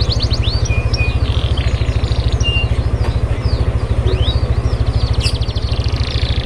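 A songbird singing fast trills of rising and falling sweet notes with short whistled pauses. Under the song runs a loud, steady low throb that pulses many times a second, like an idling engine.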